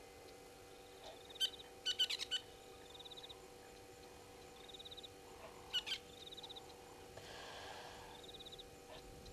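Birds calling: a short rattling trill repeats every two to three seconds, and loud, sharp chirping calls come about one and a half to two and a half seconds in and again near six seconds. A faint steady hum runs underneath, and a soft hiss rises briefly near the end.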